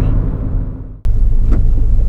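Exhaust of a Subaru BRZ's flat-four engine with an aftermarket header, running and fading away. About halfway through it cuts off abruptly and the engine sound comes straight back at full level, with a brief click soon after.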